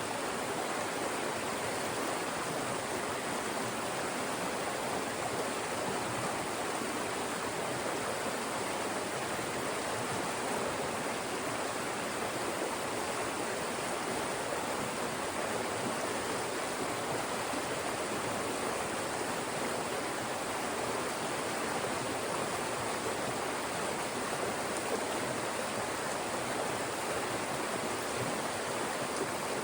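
Fast-moving mountain stream rushing through channels between rocks: a steady, unbroken rush of water.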